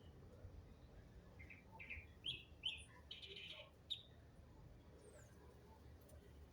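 A songbird chirping: a quick run of about six short notes, one of them longer, between about one and a half and four seconds in.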